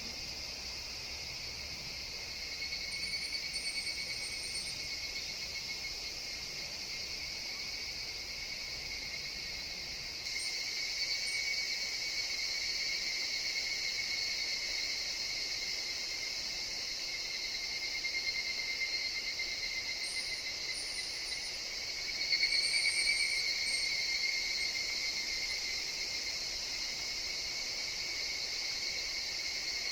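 Forest chorus of higurashi (evening cicadas) calling steadily and densely, swelling louder now and then as individual cicadas come in. A few brief high chirps sound over it.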